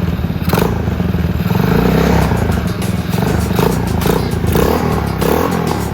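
Honda Chaly mini-bike's 107cc Chinese single-cylinder four-stroke engine, a four-speed rotary-shift unit, running.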